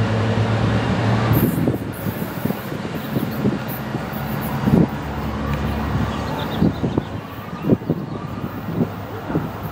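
Nippon Sharyo diesel multiple unit rolling slowly past at close range, its diesel engine humming under a low rumble. Its wheels give several sharp knocks over the track, the clearest a little under 5 s in and near the end.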